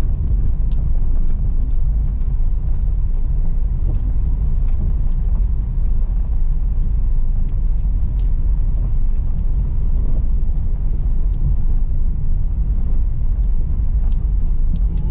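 Car driving on a rough unpaved road: a steady low rumble of engine and tyres, with scattered light clicks and ticks over it.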